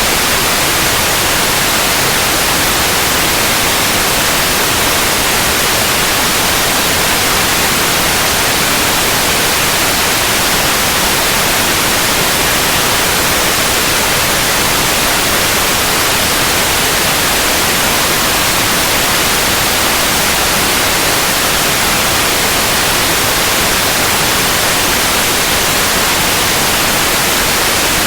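Steady, continuous white noise: an even hiss, brightest in the high frequencies, with no change throughout.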